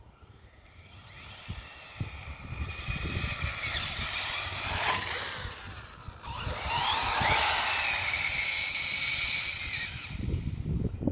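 Hobbytech NXT RC buggy's motor revving hard with a high-pitched whine as the buggy speeds past twice, rising and falling in pitch and loudest on each pass.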